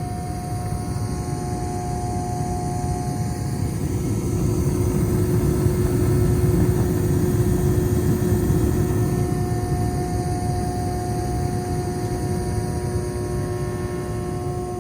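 Carrier 58DLA gas furnace blower motor running with a steady electrical hum over a low rushing noise. The rush swells about a third of the way in and eases off again.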